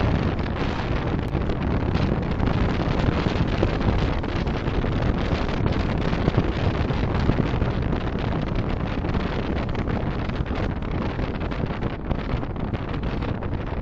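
Steady road and wind noise of a moving car picked up by a dashcam's microphone, an even rushing with no distinct events.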